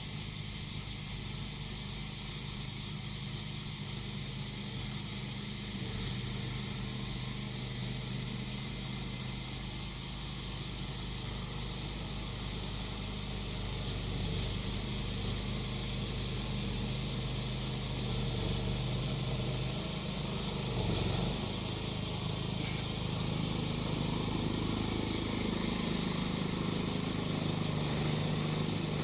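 The small engine of a grass-cutting machine running steadily under a chorus of cicadas buzzing high and continuously. The engine note dips briefly about two-thirds of the way through, then runs a little higher.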